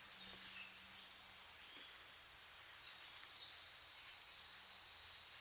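High-pitched insect trilling, like a cricket chorus, coming in bouts about a second long, roughly every two and a half seconds.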